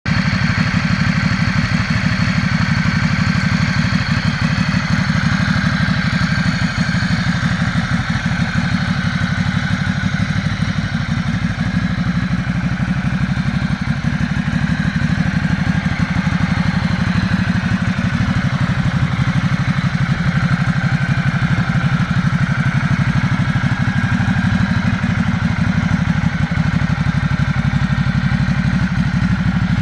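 Motorcycle engine idling steadily, with an even, rapid beat of firing pulses.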